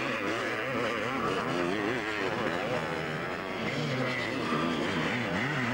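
Several vintage twinshock 250cc two-stroke motocross bikes racing, their engines revving up and down with pitches rising and falling over one another.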